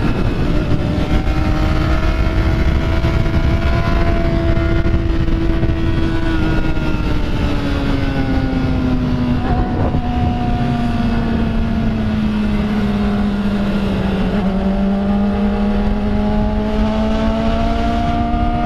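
Motorcycle engine running under way, its pitch easing down slowly over several seconds and then rising a little near the end. Wind rushes over the microphone.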